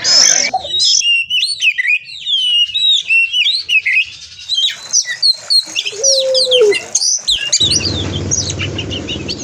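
Oriental magpie-robin (kacer) singing a fast, varied song of rapid rising and falling whistles and trills. A steady low rushing noise comes in under it near the end.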